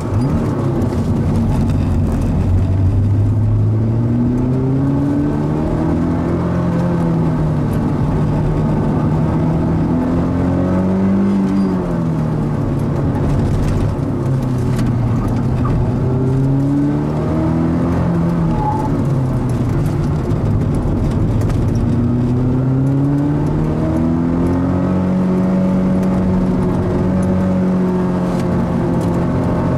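Mazda NC Roadster's stock 2.0-litre four-cylinder engine being driven hard on a circuit. Revs climb and drop several times as it accelerates, shifts and brakes for corners, holding high revs near the end.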